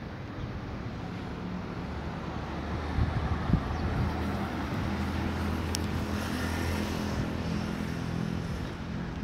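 A car engine running close by at low speed: a steady low hum over street noise, starting about a second and a half in and easing off near the end.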